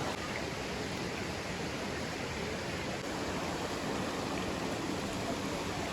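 Steady rushing of flowing water from the waterfall's stream.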